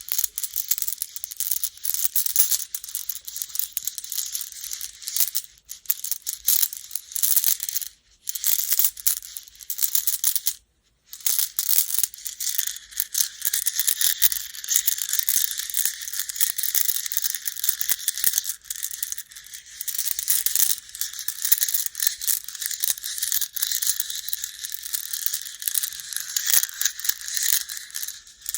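Baduk (Go) stones clattering against one another in a dense run of small clicks, with short breaks about eight and eleven seconds in.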